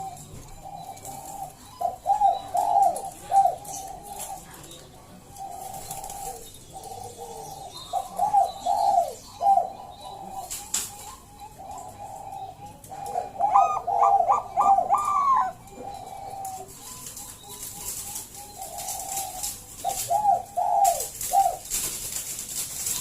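Zebra dove (Bangkok-type perkutut) singing: repeated phrases of quick, rolling cooing notes, with a higher, louder phrase about two-thirds of the way through.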